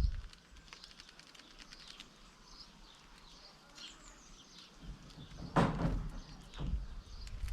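Small garden birds chirping and twittering in short high calls, with a loud thump about two-thirds of the way through and a softer one a second later.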